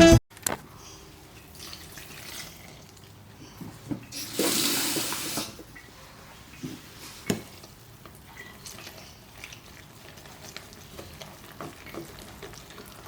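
Water running for about a second, a few seconds in, with a few light knocks of kitchen things around it.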